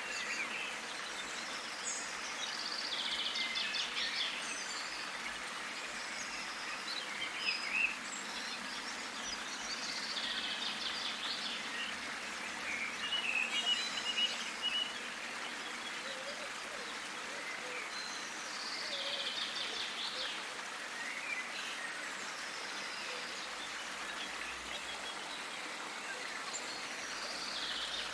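Small songbirds chirping and giving short rapid trills at intervals, over a steady hiss of outdoor background noise.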